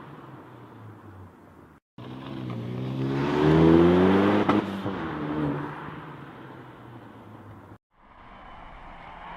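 Turbocharged hot-hatch engine and exhaust accelerating hard, its pitch climbing to a loud peak and then falling away. Two abrupt silent gaps split the sound into three segments; the last holds a lower, steadier engine note.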